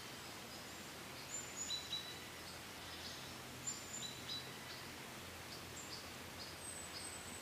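Birds chirping in scattered short, high notes over a faint, steady outdoor hiss.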